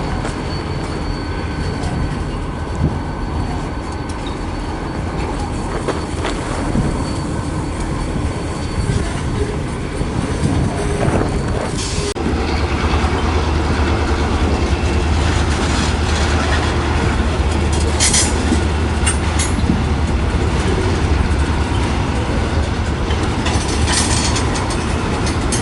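A train rolling past: a continuous rumble of rail cars on the track. About halfway in, a low steady drone joins and grows louder, and there are a few sharp metallic squeals or clanks near the end.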